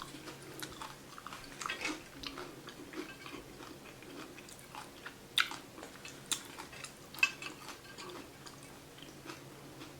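A person chewing a mouthful of veggie taco close to the microphone: small irregular crackles and smacks, with three sharper crunches a little past halfway.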